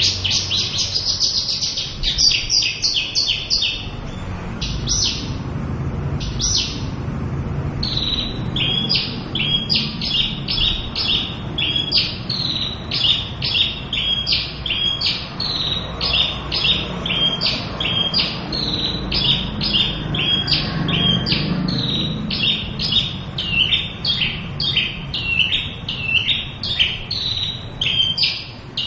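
Javan bush lark (branjangan) singing: a rapid warbled phrase at first, then a long run of short, high, down-slurred chirps repeated about three times a second.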